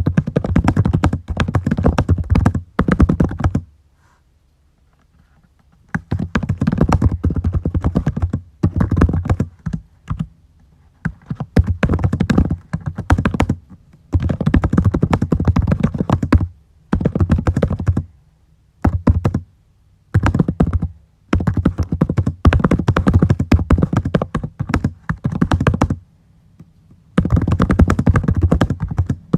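Typing on a computer keyboard in fast runs of keystrokes, broken by brief pauses; the longest pause, about four seconds in, lasts roughly two seconds.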